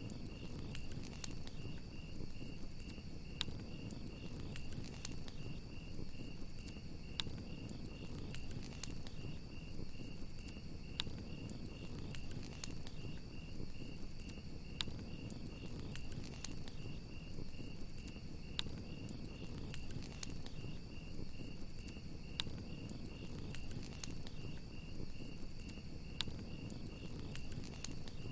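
Crickets chirping in a steady, rapidly pulsed trill over a crackling wood fire, with a sharp pop from the fire every second or two above a low steady rush.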